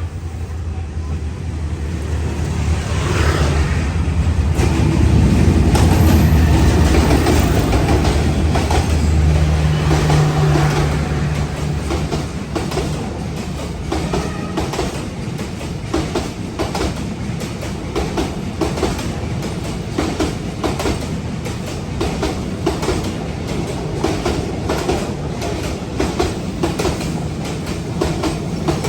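Diesel-hauled train passing: the locomotive's low engine drone swells to a peak in the first several seconds, then the carriages' wheels clack steadily over the rail joints.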